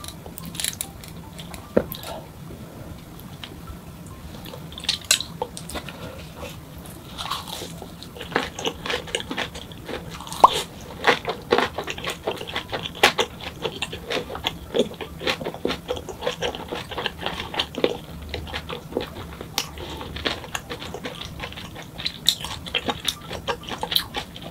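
Chewing a mouthful of boiled pork wrapped in a perilla leaf: wet crunches and clicks, sparse at first and coming several a second from about eight seconds in.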